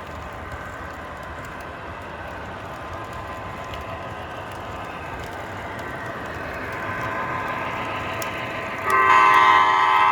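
MTH model diesel locomotives' onboard sound systems: the diesel engine sound revs up gradually, and about nine seconds in a loud multi-note air horn starts blowing.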